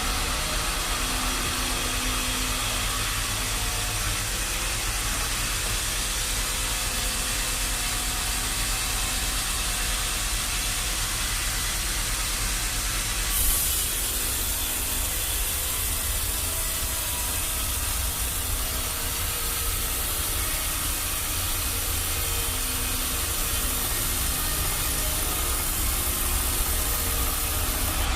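Sawmill machinery running steadily: a low engine rumble under a strong hiss. The hiss turns brighter suddenly about halfway through.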